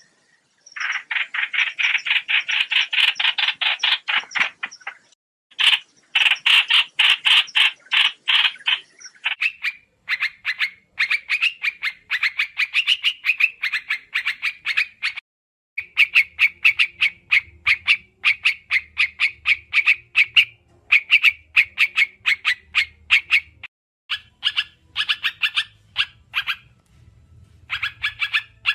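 White-eyes giving rapid, chattering twitter calls: fast trains of short notes in phrases a few seconds long with brief pauses, as used to lure birds for trapping.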